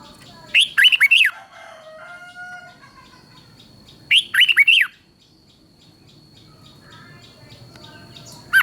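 Red-whiskered bulbul singing: two short, loud phrases of quick whistled notes a few seconds apart, with a third phrase starting at the very end.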